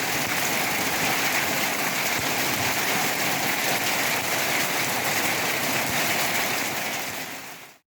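Steady rain, an even hiss of falling water, fading out about seven seconds in.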